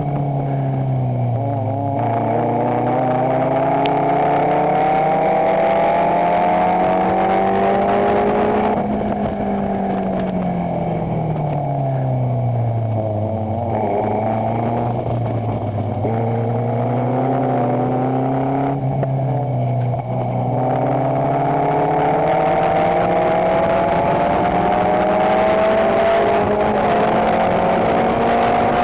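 Chevron race car's engine heard from its own open cockpit while it is driven hard: the revs dip, then climb steadily for several seconds, fall away around the middle, hold low for a few seconds, and climb again through the last stretch.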